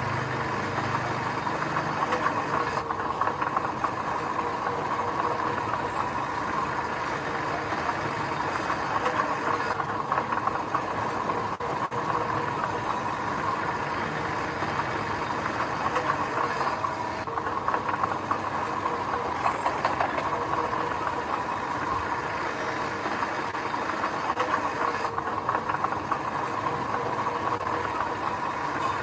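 Diesel engine of earthmoving machinery running steadily.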